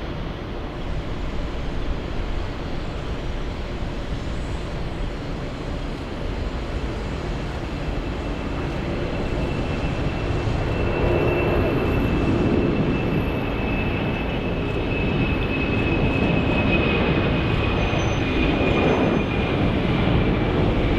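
Jet airliner's engines running as it passes, the roar growing steadily louder. A high engine whine comes in about a third of the way through and slowly falls in pitch.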